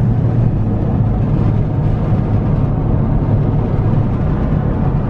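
Steady car road noise heard inside the cabin: engine and tyres rumbling low and even while the car drives slowly.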